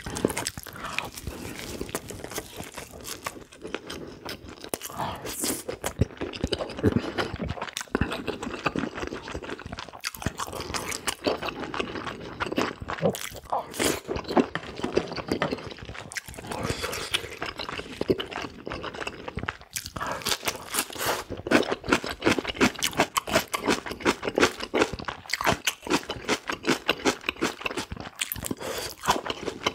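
A person chewing and biting food close to the microphone: a dense, irregular run of quick wet mouth clicks throughout, the sound of mukbang eating.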